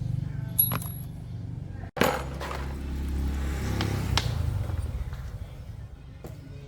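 An engine running steadily, with a few sharp metallic clinks; the sound cuts out for an instant about two seconds in and the engine note carries on a little changed.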